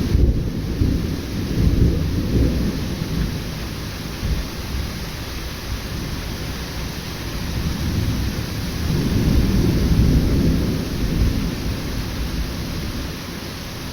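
Thunder rumbling over steady rain in a sudden thunderstorm. A long low roll fades over the first few seconds, then a second rumble builds about eight seconds in and dies away near the end.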